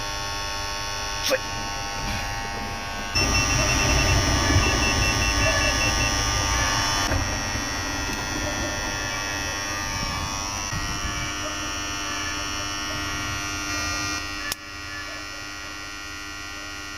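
AC contactors in a street-light control cabinet humming steadily, a buzz of many even tones from their vibrating coils. The electrician blames this vibration for shaking the terminal connections loose. Two sharp clicks, one about a second in and one near the end, and the hum steps louder and quieter along the way.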